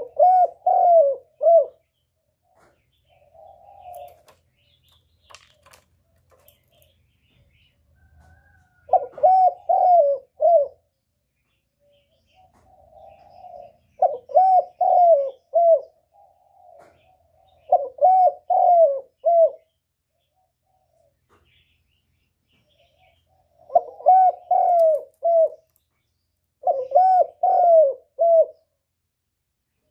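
Spotted dove cooing: six phrases of three or four quick notes each, repeated every few seconds, with a soft rolling note before some of the phrases.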